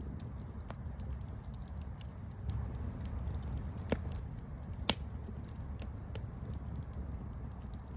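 Wood campfire crackling: a steady low rumble of burning with frequent small snaps, and two louder pops about four and five seconds in.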